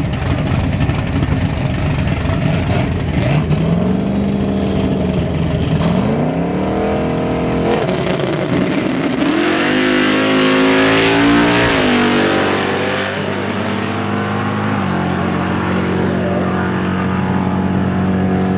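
A drag car's engine revving several times at the starting line, climbing and dropping back in pitch, with the biggest climb and a hiss about ten seconds in, then settling to a steady rumbling idle.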